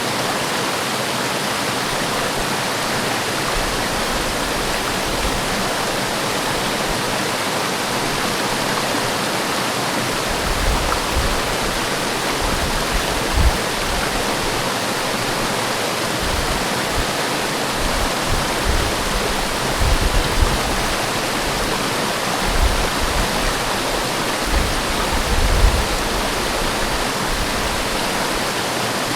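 Forest waterfall: water falling and splashing in a steady, full rush. From about ten seconds in, occasional short low rumbles sit underneath it.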